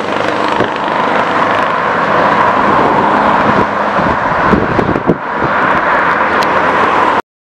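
Scania R620's straight-piped V8 running loud, easing off briefly about five seconds in and then pulling again. The sound cuts off abruptly near the end.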